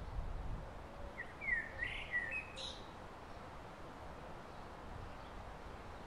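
A bird gives one short phrase of quick up-and-down notes about a second in, ending on a high rising note, over a steady low background rumble.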